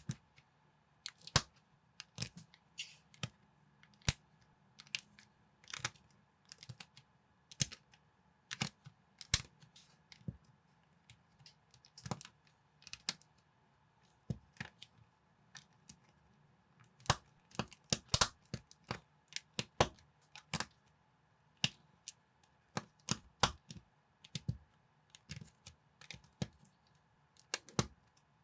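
Plastic building bricks being handled and pressed together: irregular sharp clicks and taps, with a busier run of clicks a little past the middle.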